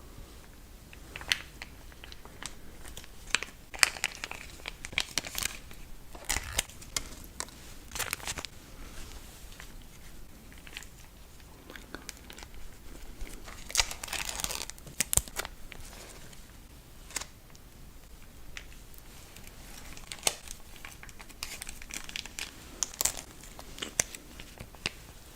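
Crinkling and tearing of plastic packaging, in irregular bursts of rustling with sharp crackles, busiest in two stretches.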